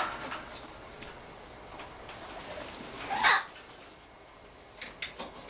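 A pet parrot gives one short, loud squawk about three seconds in, and a few light clicks follow near the end.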